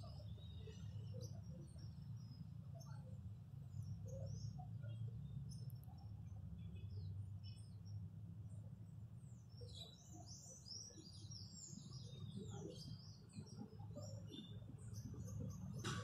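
Small birds chirping and twittering, busiest about two-thirds of the way through, over a steady low rumble.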